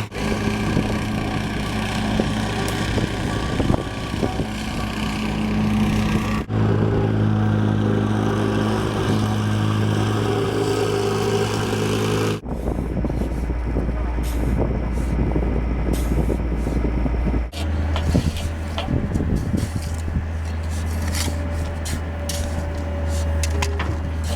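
Engines of earth-moving equipment running steadily, with the engine note changing abruptly several times; in the last few seconds, clanks and ticks sound over the engine.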